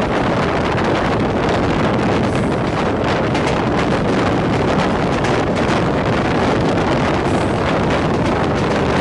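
Steady rushing wind on the microphone over the running noise of the Madgaon Rajdhani Express at speed.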